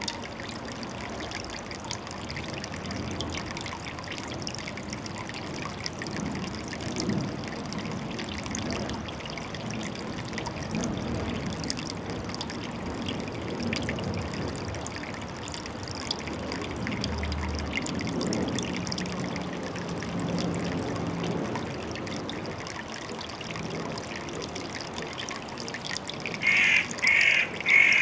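Water trickling steadily. Near the end a crow starts cawing, a quick series of loud calls.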